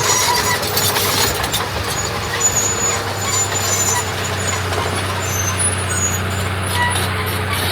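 Heavy diesel earthmoving machinery running, a steady low engine drone with short high-pitched squeaks over it.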